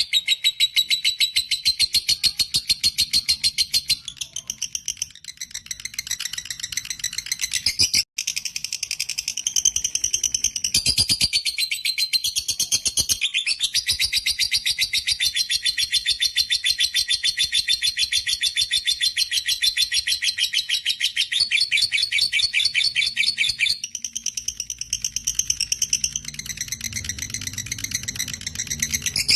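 Lovebird chattering in long unbroken runs of rapid, sharp high notes: the long 'ngekek' trill. There is a brief sudden gap about eight seconds in.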